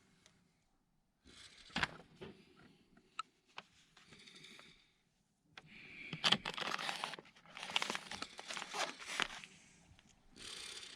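Handling noises: intermittent rustling and tearing with a few sharp clicks, busiest in the middle stretch.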